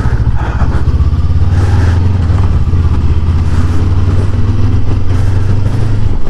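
Honda CB500X's parallel-twin engine running steadily as the motorcycle is ridden, with a slight change in engine pitch about two seconds in.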